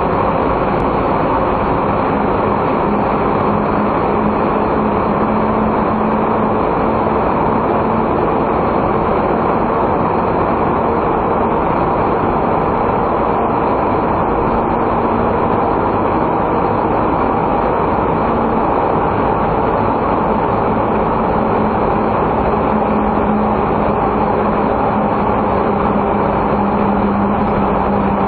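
Steady engine and road noise heard from inside a non-turbo kei car driving along at an even pace, with a constant low drone from the engine and tyres and no change in pitch or loudness.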